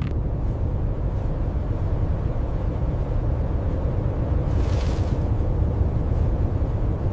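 A steady deep rumble, with a brief high hiss about four and a half seconds in.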